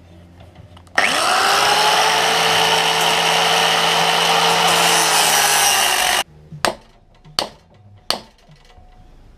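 Angle grinder with a cutting disc spinning up with a rising whine about a second in and cutting into the welded steel shell of an air-conditioner compressor for about five seconds, then stopping suddenly. A few sharp knocks follow.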